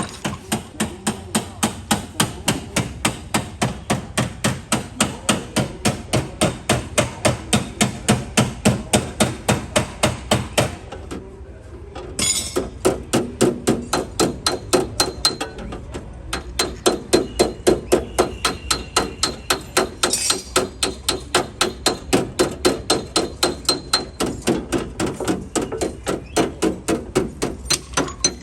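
Rapid, even hammer taps on a car's sheet-metal body panel, about three to four a second, with a short break a little before the middle. This is dent-repair tapping on a Chevrolet Optra.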